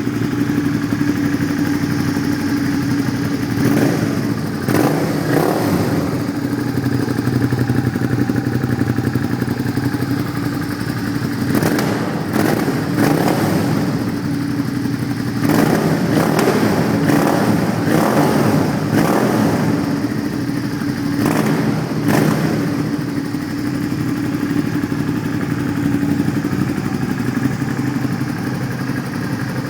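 Suzuki SV650's 645 cc 90-degree V-twin running through a Viper aftermarket exhaust, idling steadily. Several short throttle blips come in the middle, most of them close together.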